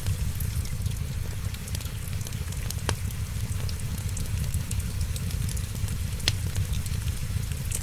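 Wood fire crackling with many small ticks and two sharper pops, about three and six seconds in, over a steady low rumble.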